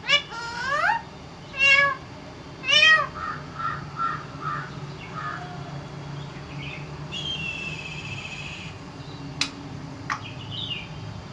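Parrot calling: four loud calls that sweep up and down in pitch in the first three seconds, then a run of short quieter notes, a held steady note around the middle, two sharp clicks and a short call near the end.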